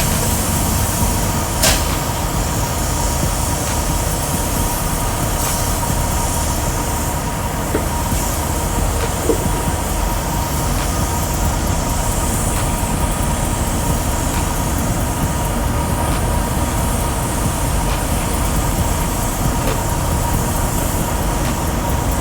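Semi-truck diesel engine running steadily: a continuous low rumble with a faint steady whine above it and a couple of light clicks.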